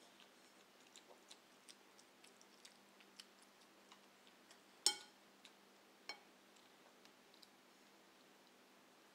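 Someone chewing: faint, irregular wet clicks and smacks of the mouth, with one sharper click about five seconds in and another about a second later.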